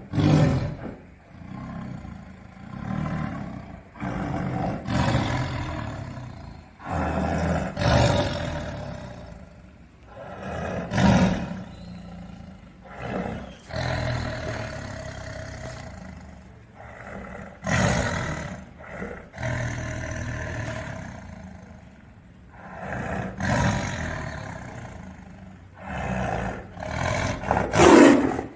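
Tiger roaring repeatedly, a separate roar every few seconds, the loudest one near the end.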